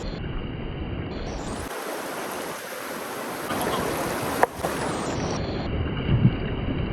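River water rushing steadily, with a single sharp knock about four and a half seconds in.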